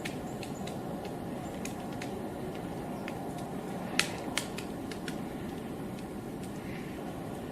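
Woodpecker pecking at wood: irregular single sharp taps, the loudest two close together about four seconds in, over a steady background noise.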